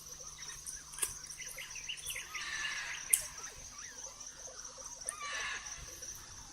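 Forest ambience: a steady high-pitched insect drone with short bird chirps. Scattered light clicks and crackles run through it, with one sharper click about three seconds in.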